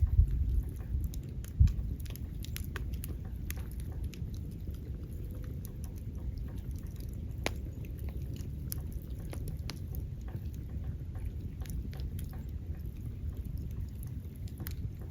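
Burning wood fire crackling, with scattered sharp pops and snaps over a low steady rumble; a louder pop comes in the first two seconds.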